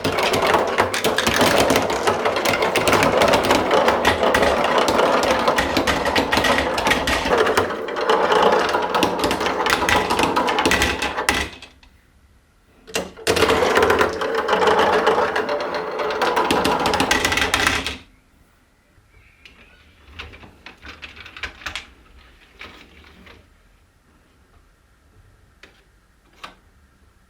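Glass marbles clattering and rattling down a plastic marble run in a dense stream for about 11 seconds. A second burst follows after a short break, then only a few scattered clicks as the last marbles settle.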